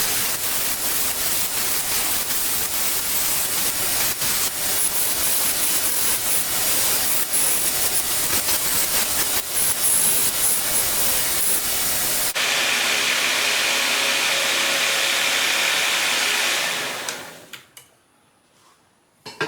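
A loud steady rushing hiss with faint irregular clicks. About twelve seconds in it changes abruptly to a different steady hiss with a faint hum in it, which then fades out.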